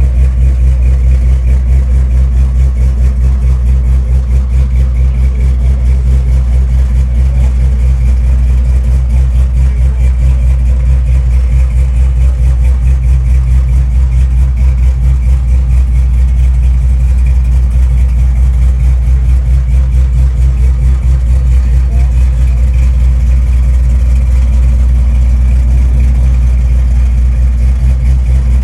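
A car engine idling loudly and steadily with a deep rumble, close to the microphone.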